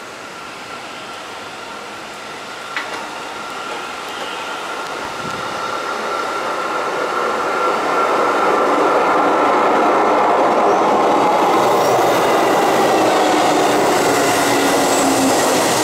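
Keihan 2400-series electric train approaching along a curve and pulling into the station, growing louder over the first eight seconds. A thin, steady wheel squeal from the curve runs through most of it, and a lower hum falls slowly in pitch as the train slows alongside the platform.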